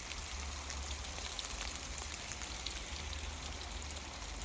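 Steady rain and sleet falling: an even hiss with scattered ticks of single drops, over a low rumble.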